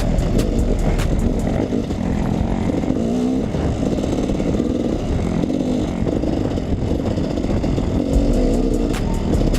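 KTM 300 EXC two-stroke dirt bike engine running under riding load, its pitch rising and falling with the throttle.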